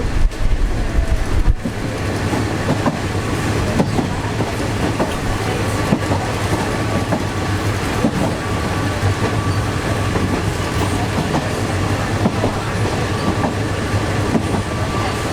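Passenger train running along the track, wheels clattering over the rails with a steady low rumble and many small irregular clicks. Wind buffets the microphone for the first second or so.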